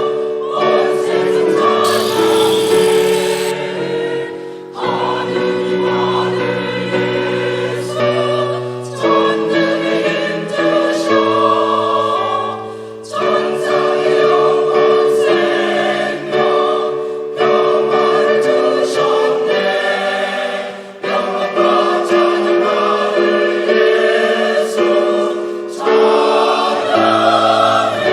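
Catholic parish choir singing in parts: long held chords, with short breaks between phrases every few seconds.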